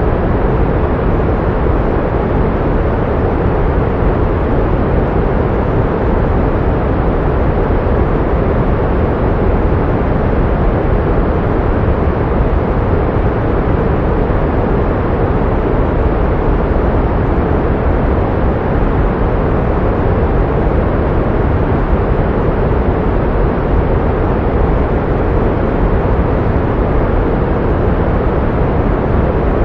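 Pink noise: a steady, unchanging hiss, heavier in the low end so it sounds softer and deeper than white noise.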